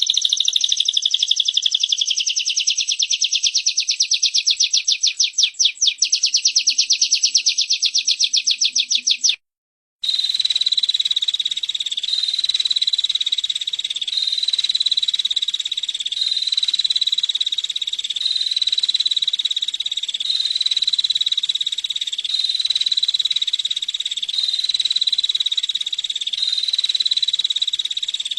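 Played-back recording of female prinia (prenjak) calls: a rapid, dry, high trill of fast even notes for about nine seconds. It breaks off suddenly, then gives way to a continuous high buzzing trill that swells and fades in even cycles of about a second and a half, as a looped recording.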